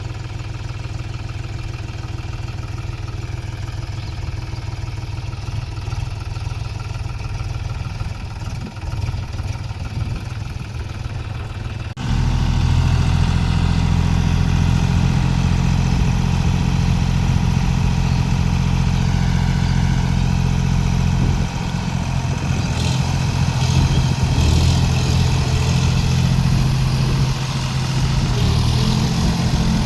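John Deere 5050D tractor's three-cylinder diesel engine running steadily with a low hum. About twelve seconds in it abruptly becomes louder and fuller, and stays that way.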